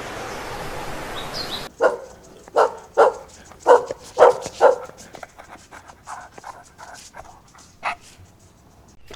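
A dog barking about six times in quick succession, then a few fainter, softer calls. Before the barks, a steady hiss of background noise cuts off suddenly about two seconds in.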